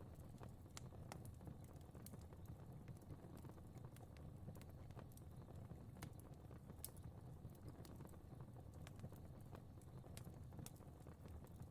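Fire crackling quietly: irregular sharp pops and snaps over a low, steady rumble of flames.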